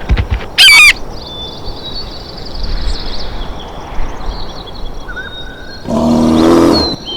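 Two loud animal calls over continuous small-bird chirping: a short one about half a second in, and a longer, lower one about a second long near the end.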